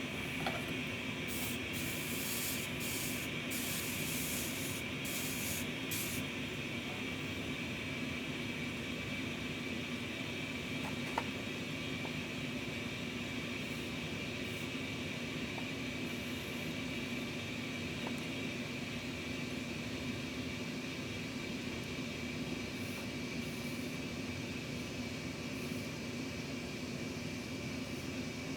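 A steady machine hum with a constant hiss, and a few short bursts of high hiss in the first six seconds.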